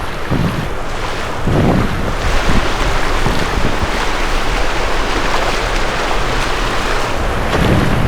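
Surf breaking and washing up a sandy beach, with wind buffeting the microphone in low gusts.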